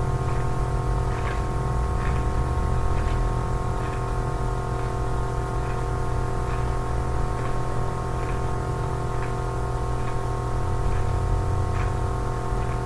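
Background ambient music: a steady drone of many held tones with a deep low bed, with faint small ticks scattered over it.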